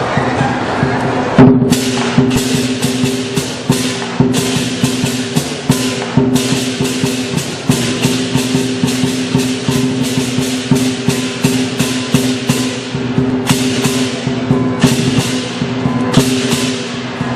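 Southern lion dance percussion: the lion drum beating under repeated cymbal crashes, with a few short breaks in the crashing and one loud hit about a second and a half in.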